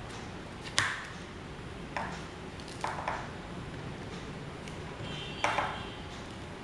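Metal parts being handled and knocked together: four sharp metallic clicks, the last and loudest ringing briefly, over a steady low background hum.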